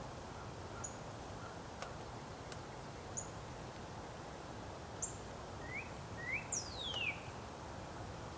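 Small birds calling over a steady low outdoor rumble: a few short, high chirps spaced a couple of seconds apart, then two short rising notes and one long falling whistle near the end.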